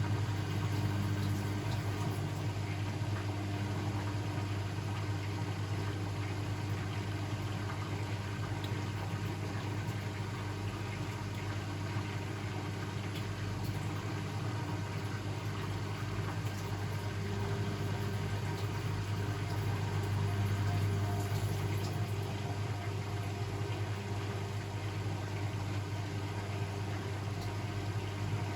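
Blomberg WAF 7442 SL washing machine running mid-cycle, a steady hum with some water noise.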